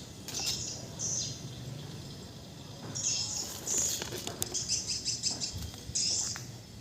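A small bird chirping in short, high-pitched bursts, with a quick run of chirps in the middle.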